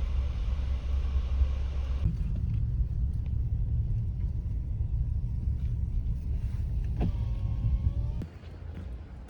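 Steady low road rumble inside a moving car's cabin; it drops in level near the end.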